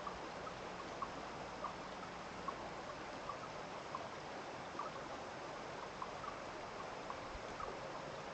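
Running water trickling steadily, with small irregular drips or plinks scattered through it.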